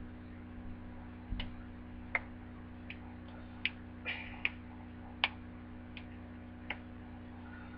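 About ten faint, sharp clicks at uneven intervals, over a steady low electrical hum.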